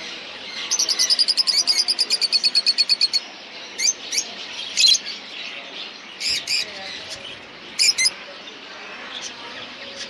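Caged birds chirping: a rapid run of high, repeated chirps, about eight a second, lasting a couple of seconds near the start, then scattered single high calls over a steady background murmur.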